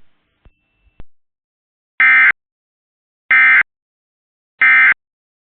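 Three short identical bursts of SAME digital data tones, a shrill electronic warble, about a second and a half apart: the end-of-message code that closes an Emergency Alert System weather warning broadcast.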